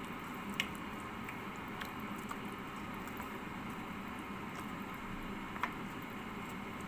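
Pot of broth, water and basmati rice simmering steadily, with soft squishy sounds as chicken pieces are put back into it and two light clicks, one about half a second in and one near the end.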